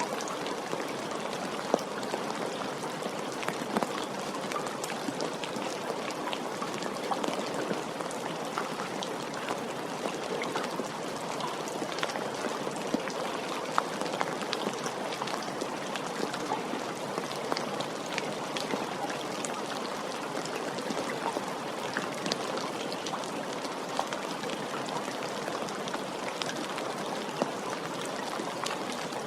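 Steady rain falling, an even hiss dotted with the sharp taps of individual drops striking a surface.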